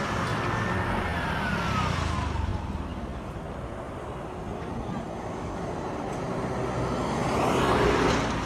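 Motor vehicles passing close by on the street. One goes by in the first couple of seconds, its engine note falling in pitch as it passes; another approaches and is loudest near the end.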